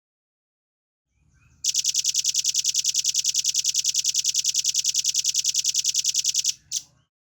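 Velvet-fronted nuthatch singing one long, fast, evenly spaced trill of high, sharp notes, about ten a second for some five seconds. One last single note follows just after the trill stops.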